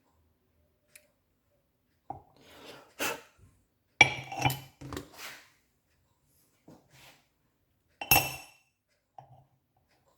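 A few sharp metal clinks and knocks of small engine parts and tools being handled on a workbench, the loudest about four and eight seconds in.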